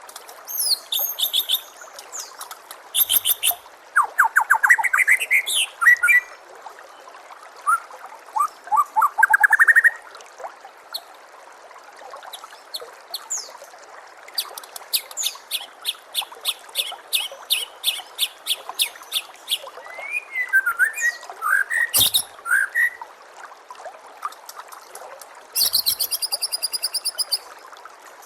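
White-rumped shama (murai batu) singing a varied run of loud whistled phrases, rising slurs and fast rattling trills, with short pauses between them. A steady trickle of running water sounds underneath.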